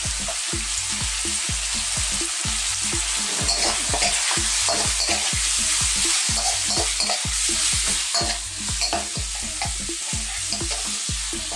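Chopped smoked bacon, onion and garlic sizzling in olive oil in a wok over lively heat. A metal spoon stirs and scrapes against the wok over and over.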